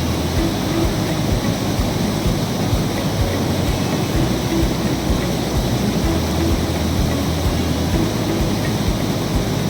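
Water rushing steadily as the overflowing lake spills in a waterfall: a loud, even rush with no breaks.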